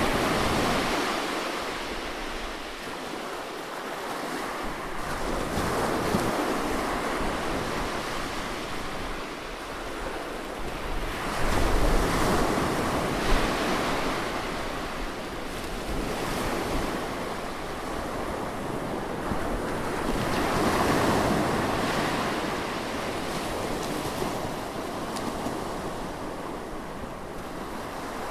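Recorded seaside ambience: waves breaking and washing on the shore close to the microphone, the surf swelling and receding every few seconds.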